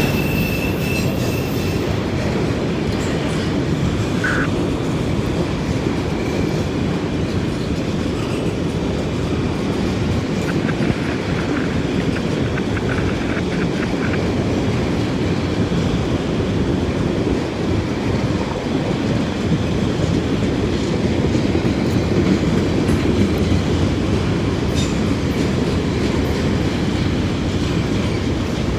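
A freight train's cars rolling past in a steady rumble of steel wheels on rail, with a clickety-clack over the rail joints. A thin wheel squeal sounds briefly at the start.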